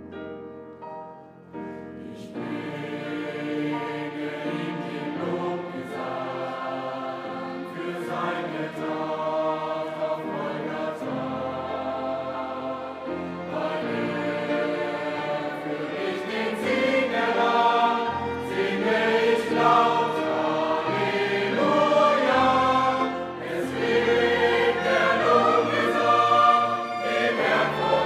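Background music: a choir singing over instrumental accompaniment, quiet at first and building about two seconds in.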